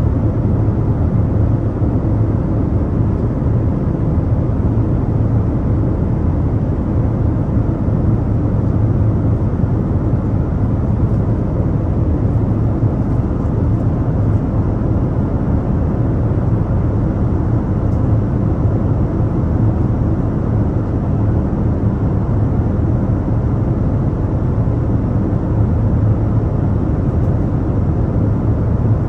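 Airplane engine and airflow noise inside the passenger cabin: a steady, even rumble, heaviest in the bass, that does not change.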